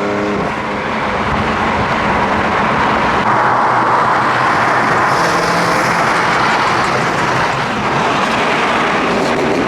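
Car driving at speed, engine and exhaust running under a loud steady rush of road and wind noise; near the end a rising engine note as it accelerates.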